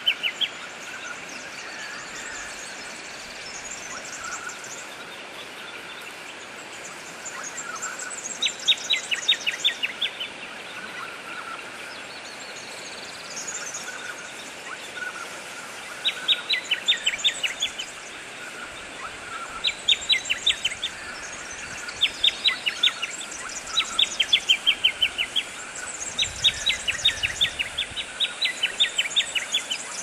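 Wild birds calling: about once every few seconds, a loud burst of rapid, evenly spaced descending notes lasts about a second, with fainter high chirping between and over the bursts.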